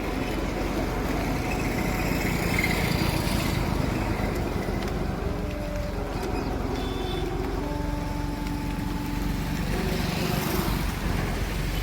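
Heavy engine running steadily, its pitch shifting up and down in steps as the revs change.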